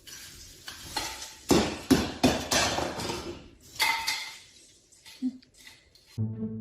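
A string of loud clattering knocks and clinks of hard objects, several in quick succession, some with a short ringing tail. Music starts just before the end.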